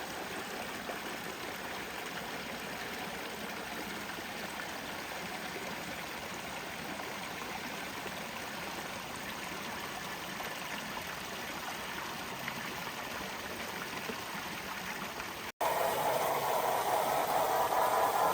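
Water running steadily in a garden stream or small waterfall. About fifteen seconds in, it cuts off abruptly and a louder steady rushing noise takes over.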